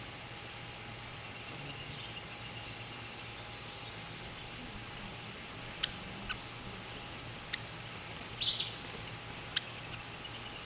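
Outdoor ambience over a steady hiss and low hum, with a few short high bird chirps, the loudest about eight and a half seconds in. A few sharp clicks are scattered through it.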